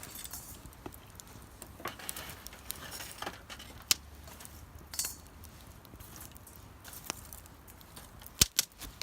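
Scattered light clicks and clinks of small hard objects, with two sharp knocks near the end.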